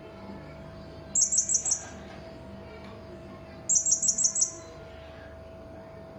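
Hanging parrot (serindit) calling: two quick bursts of five or six very high-pitched, shrill notes, about a second in and again about two and a half seconds later.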